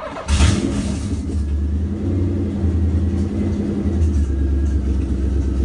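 Nissan VH45DE V8 (Infiniti Q45 engine) in a 1989 Nissan 240SX being started: a short crank, and it catches at once and settles into a steady, deep idle. The engine runs with no idle air control valve.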